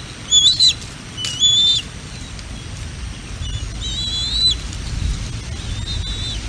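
Bald eagle calling in a run of about five high, thin whistles, each held level for under a second with a short bend at the end, the last ones fainter. A low wind rumble on the microphone runs beneath and swells in the middle.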